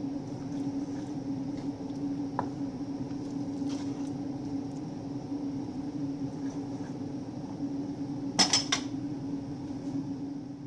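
A steady low appliance hum throughout, with scattered faint ticks and a brief clatter of kitchenware, two or three quick clinks, about eight and a half seconds in.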